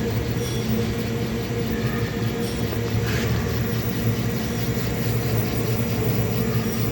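Industrial 3D printing machine running: a steady mechanical hum with a constant low drone over a fan-like rush.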